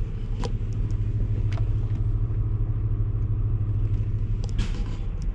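Semi-truck diesel engine idling with a steady low hum, with a few faint sharp ticks over it.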